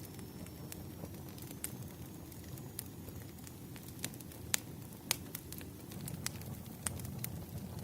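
Wood fire burning: a steady low rumble of flames with sharp, irregular crackles and pops from the burning logs, the loudest pops coming about four and a half and five seconds in.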